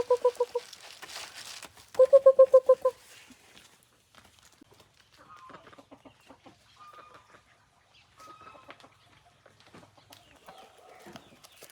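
A farm animal calling: a rapid, pulsing call that ends under a second in, a second one about two seconds in lasting about a second, then faint scattered chirps.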